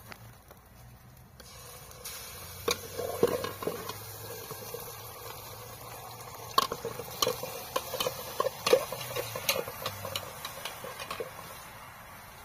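Tomato and greens sizzling in hot oil in a blackened metal pot over a wood fire, the sizzle starting about a second and a half in as the tomato goes in. A metal spoon stirring the pot gives many quick scrapes and clinks against its sides until near the end.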